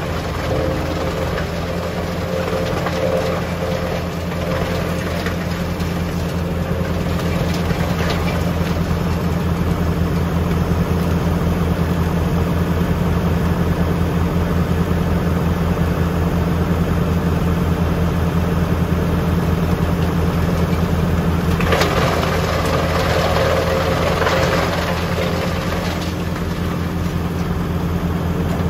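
A tractor's diesel engine runs at a steady speed, driving a PTO wood chipper. About 22 seconds in, a louder rushing noise rises over it for a few seconds, then fades.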